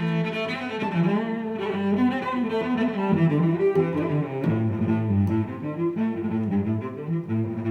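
Background music carried by bowed strings, a cello-like melody over a low line, starting suddenly at the beginning.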